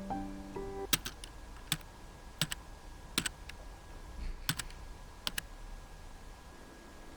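Soft music notes dying away, then a series of light, sharp clicks, mostly in quick pairs, spaced unevenly, much like keys being tapped.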